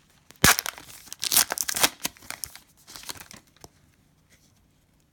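Plastic trading-card pack wrapper being torn open and crinkled by hand, in quick rips and crackles that die away about three and a half seconds in.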